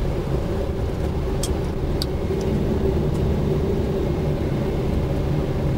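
Steady rumble of airflow and engines on a Boeing 777-200 flight deck in approach configuration with flaps 20, with a few faint clicks about one and a half and two seconds in.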